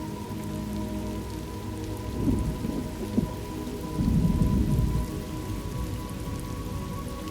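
Thunderstorm ambience: steady rain, with thunder rumbling about two seconds in and again, louder, from about four to five seconds in.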